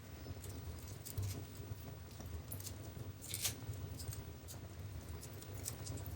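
Wood fire in a fireplace burning with a low rumble and irregular crackles and pops, the sharpest snap about three and a half seconds in.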